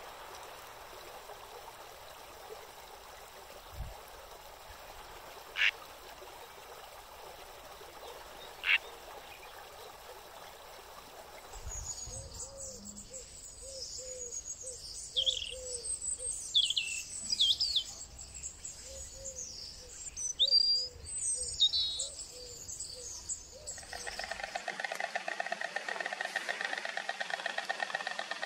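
Field recording of wild birds: a few isolated sharp calls over faint hiss, then about twelve seconds of rapid, high, varied birdsong with lower repeated notes beneath. Near the end the song gives way to a steady, fast-pulsing chorus.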